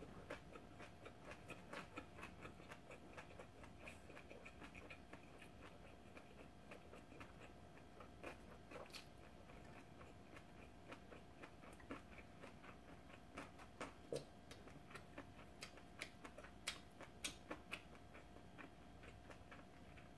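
Faint close-up chewing of a mouthful of kimbap: soft, irregular wet mouth clicks, a few sharper in the second half, over a faint steady hum.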